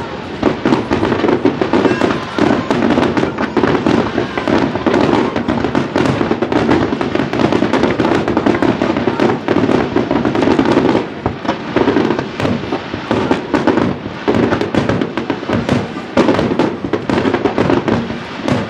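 Aerial fireworks shells launching and bursting in a rapid, dense barrage: a continuous run of overlapping booms and crackles that barely lets up.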